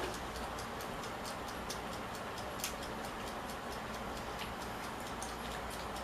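Close-up eating sounds: quick, faint, irregular clicks of chewing and mouth smacks over a steady hiss, with one louder click near the middle.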